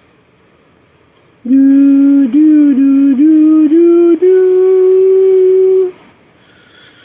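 A voice humming a short tune: a few short notes stepping upward, then one long held note.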